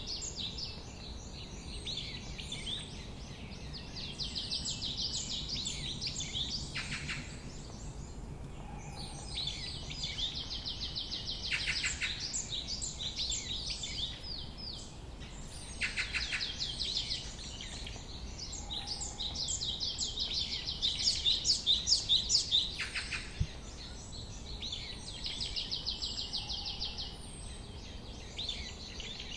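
Several small songbirds chirping and trilling continuously in fast runs of high notes. Every few seconds a call sweeps downward in pitch, and a faint steady low rumble runs underneath.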